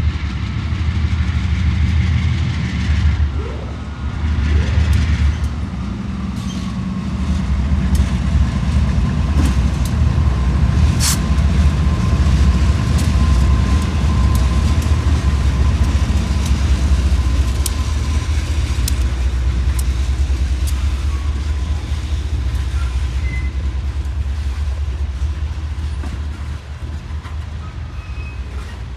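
A freight train led by two GE B40-8 diesel-electric locomotives running past, their 16-cylinder diesel engines giving a steady low rumble, with sharp clicks and knocks from the wheels and cars on the rails.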